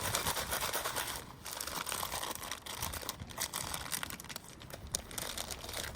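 A plastic snack bag of broken dry ramen noodle pieces and seasoning powder being shaken, the bag crinkling and the pieces rattling inside in irregular bursts.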